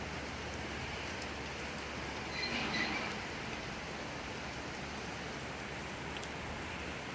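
Steady rain falling. About two and a half seconds in comes a brief, louder sound with a few short high tones, lasting under a second.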